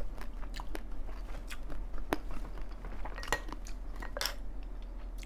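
Close-miked chewing of crab leg meat: a run of short wet mouth clicks and smacks, a few of them sharper.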